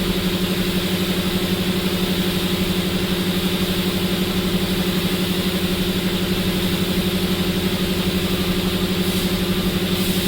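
A motor or engine running steadily, an even hum with a fast regular pulse and a hiss above it.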